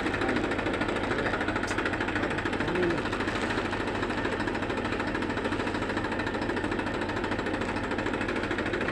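Massey Ferguson 241 DI tractor's three-cylinder diesel engine running steadily with a rapid, even knocking beat.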